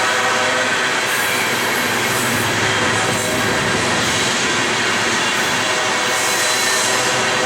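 Loaded coal train rolling past at steady speed: continuous rumble and rattle of steel wheels on rail, with a faint steady whine.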